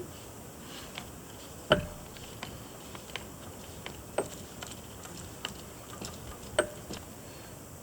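Irregular clicks and light knocks from hand work on the tank plumbing, about eight of them spaced a second or so apart, the loudest a knock about two seconds in.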